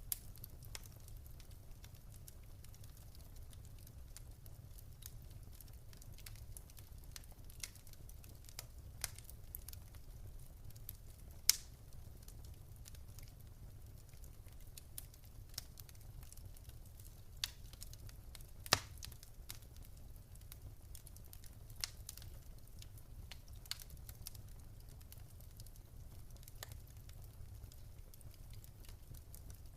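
Wood fire crackling in a fireplace: irregular small pops and snaps over a low steady rumble, with two louder pops, one about a third of the way in and one past the middle.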